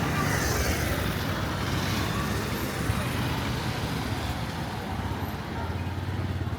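Street traffic: motor vehicle engines running close by, a steady low hum with road noise.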